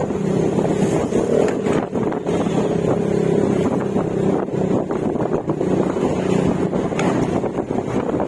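Yamaha Mio Gravis scooter's single-cylinder engine running steadily at cruising speed through an aftermarket Akrapovic exhaust with silencer, with wind noise on the microphone.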